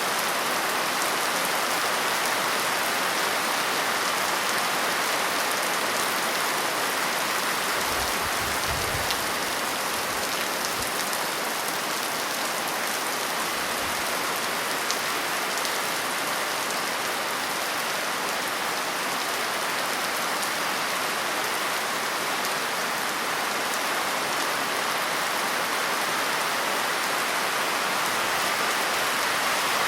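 Steady rain falling and pattering on surfaces, a continuous even hiss. A faint low rumble comes briefly about eight to eleven seconds in.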